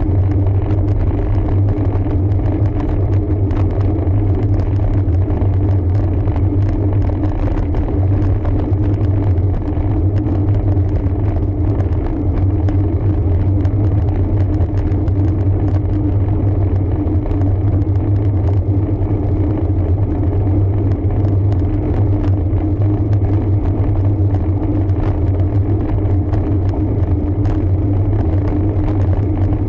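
Steady low rumble of a road bike being ridden: tyre and wind noise with scattered faint ticks.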